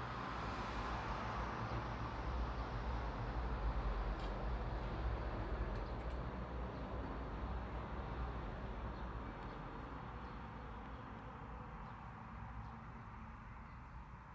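A vehicle passing at a distance: a broad rushing rumble that swells during the first few seconds, then slowly fades away, losing its high end first as it recedes.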